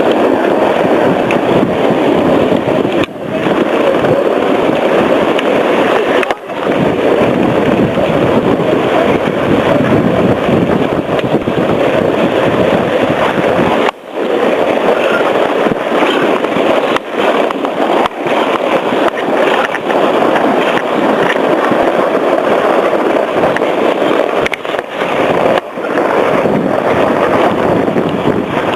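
Loud steady rushing and scraping of a rider sliding fast over packed snow, with wind buffeting the microphone; the noise briefly drops out a few times.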